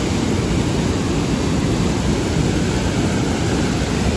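Fast-flowing river water rushing steadily, a rainy-season stream in spate.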